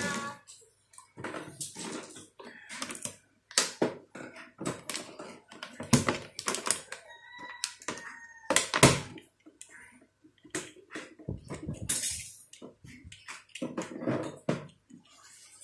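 Plastic parts of a take-apart toy construction truck clicking and knocking together as they are handled and set down: an irregular run of sharp taps and clatters.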